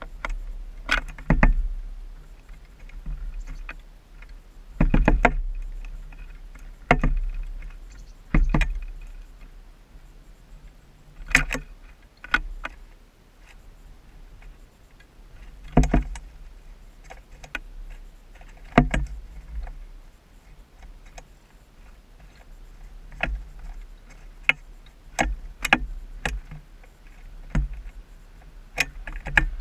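Downy woodpecker pecking at a bird feeder close to the microphone: irregular sharp taps, several seconds apart at first and coming more often near the end, over a low steady rumble.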